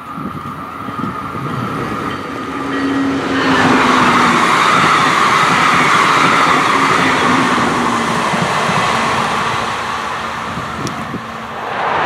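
Brightline passenger train passing over a concrete railway bridge, its wheels running on the rails. The rumble builds and is at its loudest from about three and a half seconds in, easing off near the end.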